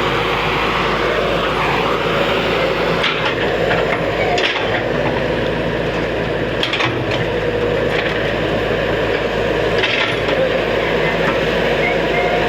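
Excavator's diesel engine running steadily under load, with four sharp cracks at intervals, like wood or material snapping as the machine works.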